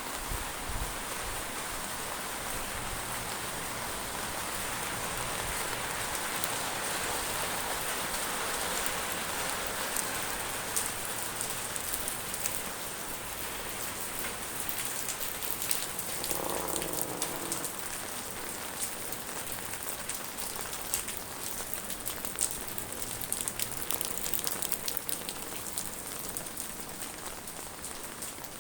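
Heavy rain falling steadily, with close drops ticking sharply and often through the middle of the stretch. A short pitched sound lasts about a second, roughly halfway through.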